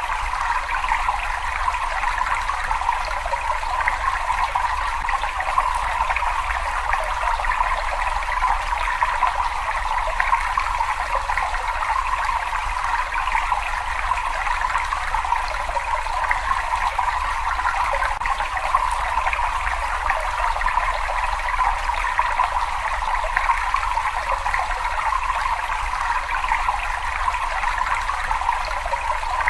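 Water flowing steadily in a cave: an even, unbroken rush of running and trickling water over a low rumble.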